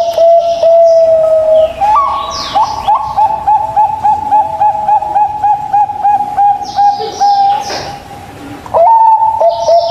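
Zebra dove (perkutut) cooing: long runs of quick, repeated notes, about four a second, broken briefly near the start and again about eight seconds in. A short burst of higher chirping comes about two and a half seconds in.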